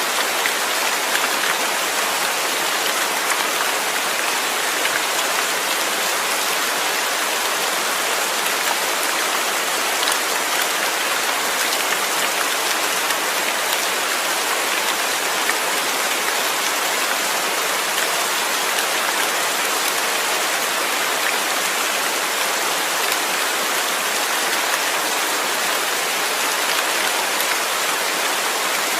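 Steady rain falling, an even dense hiss with many fine drops pattering on a surface, unchanging throughout.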